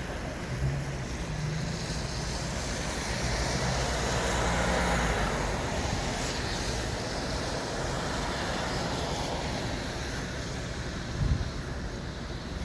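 City street traffic: a steady wash of passing vehicles and low engine rumble, swelling as a vehicle goes by about four to six seconds in, with a short low thump near the end.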